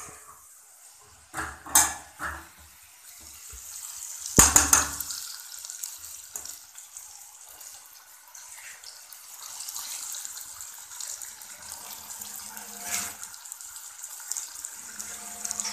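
Steel spoon clinking and scraping in a steel pan a few times, with one loud clank about four seconds in. After that comes a steady high hiss of a masala of onions, tomatoes and fresh turmeric frying as it is stirred.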